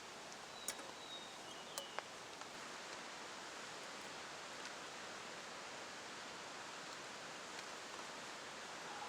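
Steady rain falling, an even hiss, with three sharp ticks in the first two seconds.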